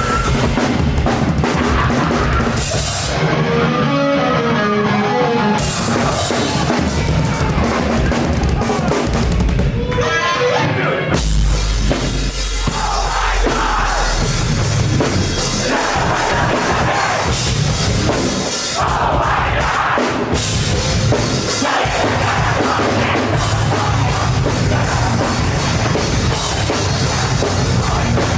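Live rock band playing loud and dense: a pounding drum kit with bass drum, plus electric guitars and bass. About eleven seconds in, a heavy low drop comes in.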